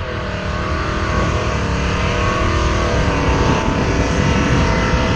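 Drag car engine revving hard during a burnout, its pitch rising and falling over a steady rush of noise.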